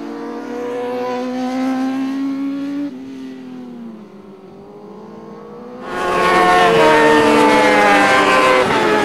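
Superbike race motorcycles at racing speed. One bike accelerates with a rising engine note, changes gear about three seconds in, then fades away. About six seconds in another bike arrives suddenly and loudly, its engine pitch slowly falling as it goes past.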